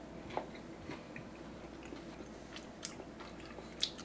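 A person chewing a mouthful of deep-fried, battered tuna salad sub, faint, with a few short crunches from the batter.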